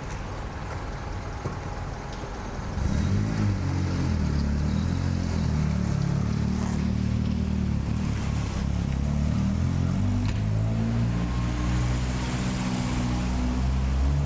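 A motor vehicle's engine running close by: it comes in about three seconds in with a low steady hum whose pitch shifts slowly, over a background of rain-like hiss.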